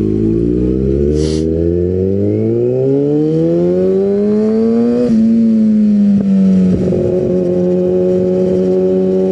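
Kawasaki ZX-6R 636 inline-four sport bike pulling away. The engine note rises steadily for about four seconds, dips briefly at an upshift about five seconds in, then settles into a steady cruise.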